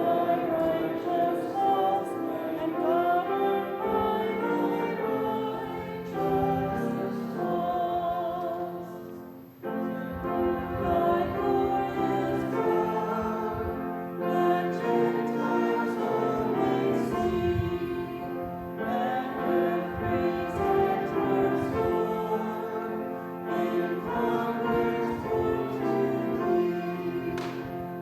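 Church congregation singing a hymn with piano accompaniment, with a short break between phrases just under ten seconds in.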